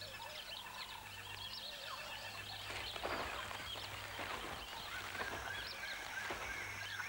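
A chorus of birds chirping and calling, many short rising-and-falling chirps overlapping throughout, over a faint steady low hum.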